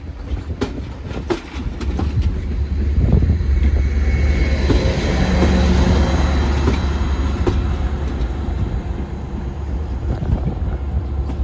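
A train passing: a heavy low rumble builds about two seconds in, is loudest around the middle with a steady mechanical hum over it, then slowly eases off. A few sharp knocks come before the rumble builds.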